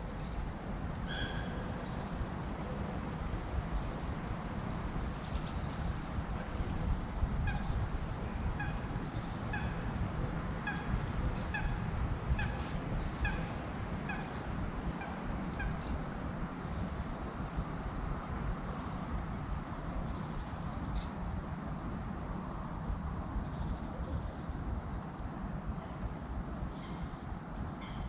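Wild birds calling, many short high chirps scattered throughout, with a run of evenly spaced lower notes, about one and a half a second, through the middle. Underneath lies a steady rushing background.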